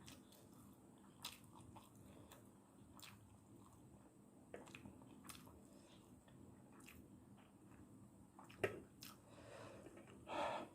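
Close-miked mouth sounds of a person eating instant noodles: quiet chewing with sharp wet clicks every second or so, and a louder mouth sound near the end.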